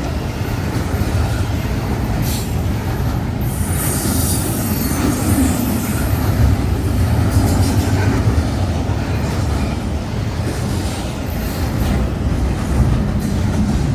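Freight train rolling past close by: a steady heavy rumble of cars on the rails, with scattered sharp wheel clatter and squeal from the wheels.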